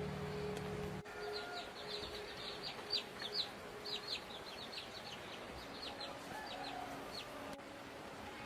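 Birds chirping: a rapid run of short, high, falling chirps for several seconds. A low steady hum cuts off about a second in.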